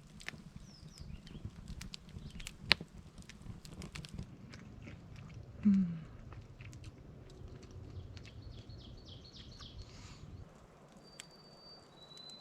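Scattered sharp clicks and crackles, with one louder knock a few seconds in. A bird gives a rapid high chirping trill, then a couple of single high whistled notes near the end.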